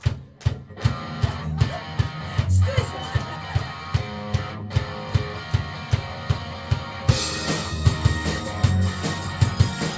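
Live rock band playing a song's intro on drum kit, guitar and bass, with an even drum beat. About seven seconds in, cymbals come in and the band plays fuller.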